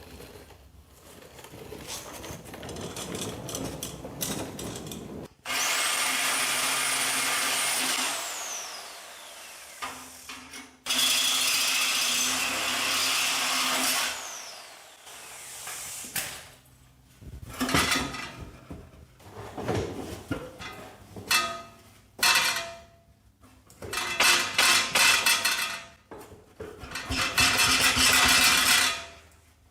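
Reciprocating saw (Sawzall) cutting through exhaust pipe in stop-start bursts, two long cuts followed by many short ones, its motor whining up at the start of a cut and winding down after.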